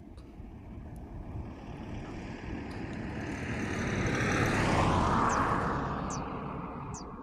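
A vehicle passing by: its noise grows louder, peaks about five seconds in, then fades as its pitch drops.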